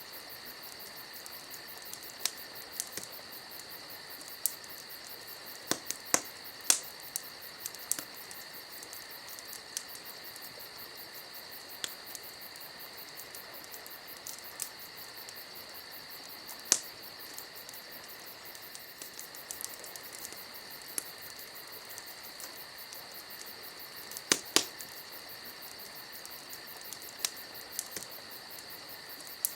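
A campfire crackling, with irregular sharp pops every second or few, over the steady high chirring of crickets.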